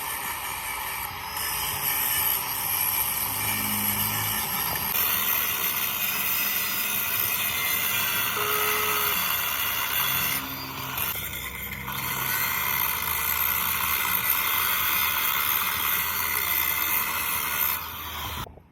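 Steady hissing metalworking noise on the axle, with a short dip in the middle. It cuts off abruptly near the end.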